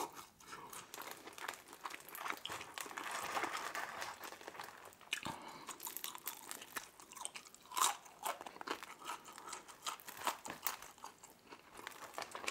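Close-miked biting and chewing of a slice of Little Caesars deep dish pizza: irregular crunching of the crust, with a louder crunch about eight seconds in.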